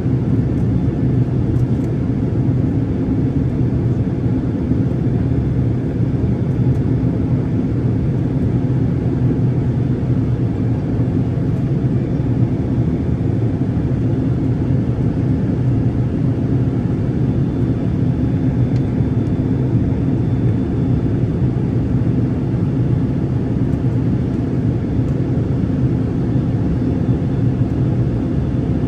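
Steady low drone of a passenger aircraft's cabin in flight: engine and airflow noise.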